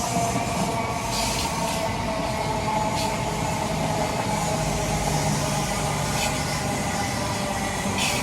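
Passenger train running past at speed: a steady rumble of wheels on the rails with an even mechanical hum from its engines or traction motors.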